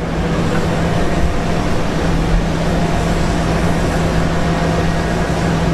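Jet aircraft engine noise across an airfield: a steady loud drone and rumble with a constant low hum, neither rising nor falling.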